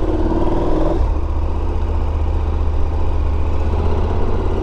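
KTM 1290 Super Adventure's V-twin engine pulling away under acceleration. Its note climbs for about a second, then drops as it shifts up, and it settles into a steady rumble.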